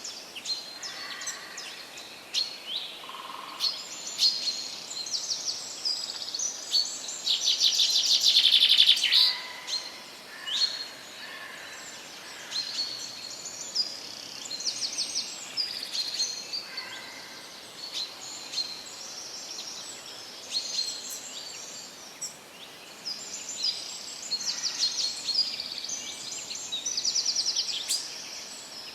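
Several songbirds singing in a forest, with chirps, short whistles and rapid trills overlapping. The loudest trill comes about eight seconds in, over a faint steady background hiss.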